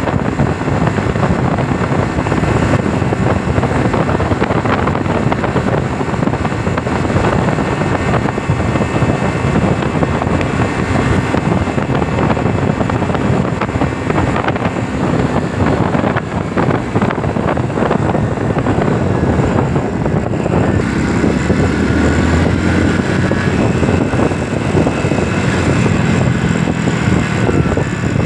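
Loud, steady noise with no clear tones, heaviest in the low range, like wind buffeting the microphone or nearby traffic.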